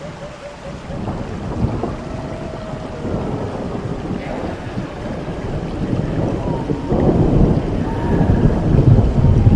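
Thunderstorm sound effect: a dense rumble of thunder over a rain-like hiss, starting abruptly and growing louder in the last few seconds, with a few faint held eerie tones above it.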